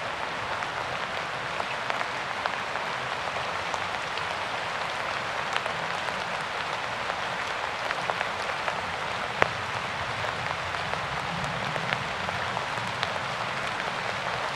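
Steady rain falling, an even hiss with scattered individual drops ticking through it, one sharper drop hit about nine seconds in.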